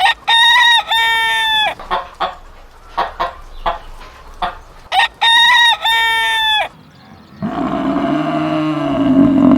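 Rooster crowing twice, with short clucks between the crows. In the last two seconds a deeper, longer animal call starts.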